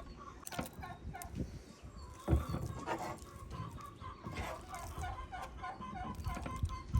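Chickens clucking in a run of short, repeated calls, with a dull knock a little over two seconds in.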